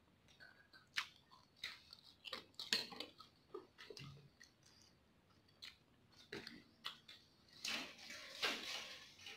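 A person chewing a mouthful of soft instant noodles, close to the microphone: faint wet mouth clicks and smacks, scattered and irregular, with a louder stretch about eight seconds in.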